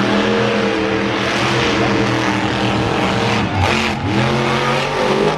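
Monster truck engine running hard at high revs, holding fairly steady, then easing off and revving back up twice in the last couple of seconds.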